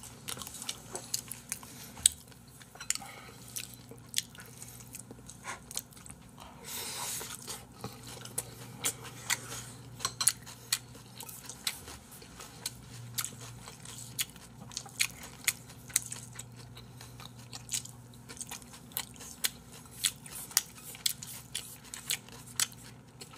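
Close-miked chewing of raw salmon and beef tartare: a steady stream of short wet mouth clicks and smacks, over a faint steady low hum.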